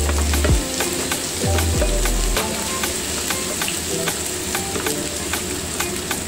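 Minced garlic sizzling in hot oil in a nonstick frying pan, stirred with a spatula that scrapes and taps against the pan again and again.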